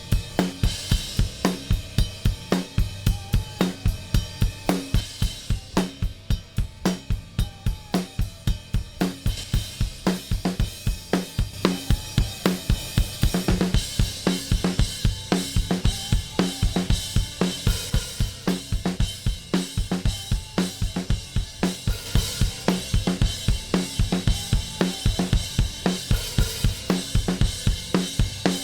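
Recorded drum-kit tracks (kick, snare, hi-hat and cymbals) playing a steady groove through an SSL 4000-style stereo bus compressor. About halfway through, the cymbals open up and the kit gets louder and brighter.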